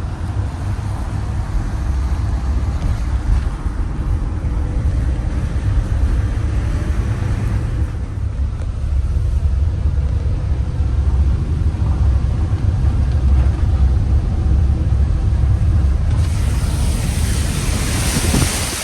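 A vehicle driving, with a steady low engine and road rumble. About sixteen seconds in, a loud hiss comes in over the rumble.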